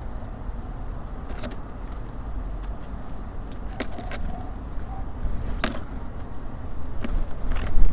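Steady low rumble of city traffic, with scattered sharp taps and clicks from small birds at a wooden bird feeder, and a brief faint chirp about four seconds in.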